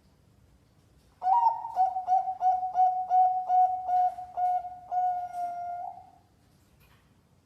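A zebra dove (perkutut) singing its cooing song. About a second in it gives a quick run of short, clear coos, roughly three a second, and ends on a longer held note.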